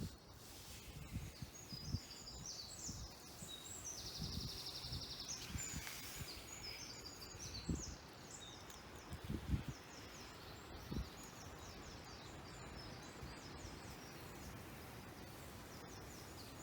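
Woodland birdsong: small birds singing quick, high chirping phrases, with a rapid even trill a few seconds in, over a steady outdoor hiss and a few low thumps.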